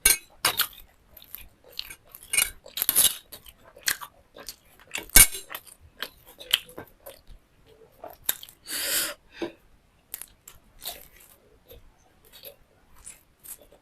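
Close-miked chewing and crunching of food in the mouth: irregular sharp crunches and wet chews, with a longer noisy stretch about nine seconds in.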